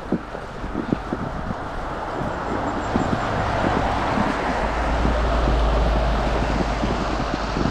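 Wind buffeting the microphone of a snowboarder being towed at speed, heaviest in the second half, over the hiss of the board sliding on snow and scattered light thuds.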